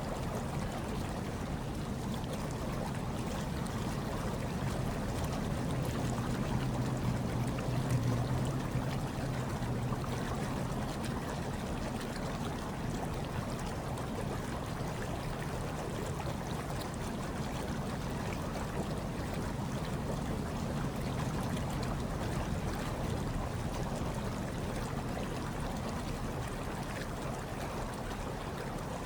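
Hot tub water steadily bubbling and trickling, over a low rumble that swells slightly between about six and ten seconds in.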